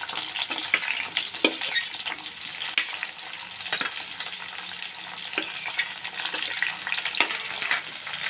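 Sliced onions and green chillies sizzling steadily in hot oil in a kadai, with scattered clicks and scrapes of a steel spoon pushing them off a steel plate into the pan.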